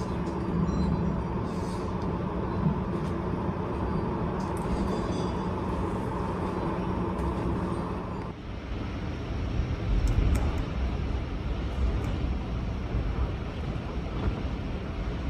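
Strong storm wind rumbling and gusting against the microphone. The sound changes abruptly about eight seconds in, after which louder low gusts swell and fade.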